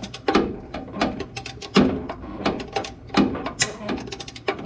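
Hand socket ratchet clicking in short runs, with metal clinks, as a rusted exhaust manifold stud is turned out by hand; the stud is backing out rather than shearing off.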